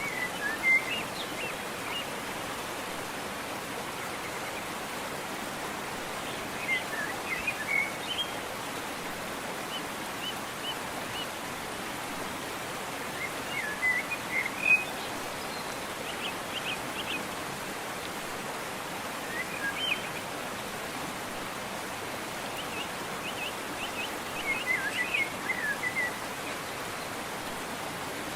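Steady rushing water of a waterfall, with a songbird singing short, quick chirping phrases that recur every few seconds over it.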